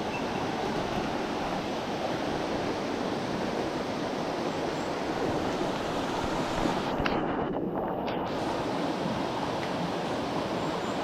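Mountain stream water rushing, a steady wash of noise; the higher part of the sound briefly drops away a little after halfway.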